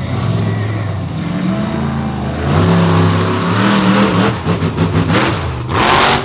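Monster truck engine revving hard, its pitch climbing and dropping as the throttle is worked. It ends in a series of sharp, loud surges of noise near the end.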